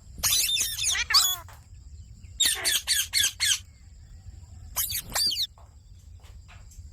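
Pet Indian ringneck parrots squawking and chattering in three short flurries of rapid, high, sweeping calls, with quieter pauses between.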